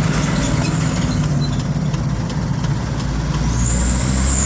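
Truck engine running steadily with a low rumble. Near the end a thin high whistle rises and then falls away.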